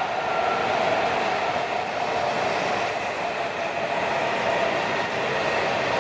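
E7/W7 series Shinkansen train passing through the station at speed, a steady loud rushing noise with a steady tone underneath.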